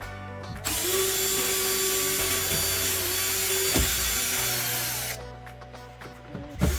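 Handheld power drill/driver running in one long run of about four seconds with a steady motor whine, then stopping; it starts up again at the very end.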